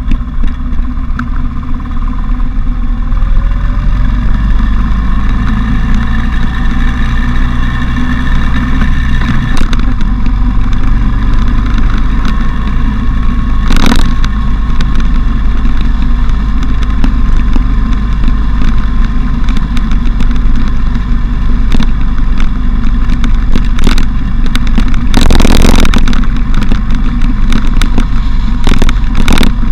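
Motorcycle engine running under way, its pitch climbing over the first several seconds as the bike accelerates, with heavy wind rushing over the action camera's microphone and two louder wind gusts partway through.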